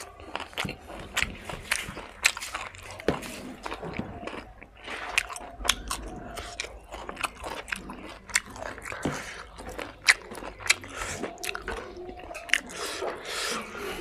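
Close-up chewing of a mouthful of fried pork and rice, with many short sharp smacks and clicks of the mouth.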